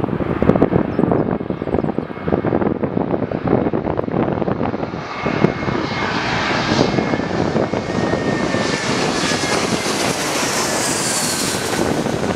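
Jet airliner passing close, its engine whine and hiss building from about five seconds in, with a high tone that falls in pitch near the end as it goes by. Wind buffets the microphone throughout.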